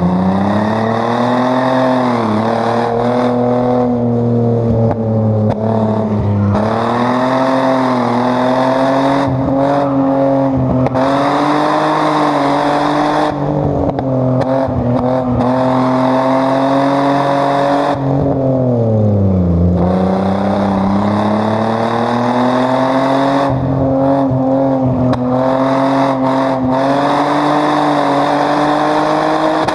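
Chevrolet Omega 3.0's straight-six engine driven hard on track, its pitch climbing and holding high with brief dips about 2 and 6 seconds in. About two-thirds through, the revs fall away in a long sweep, then climb again.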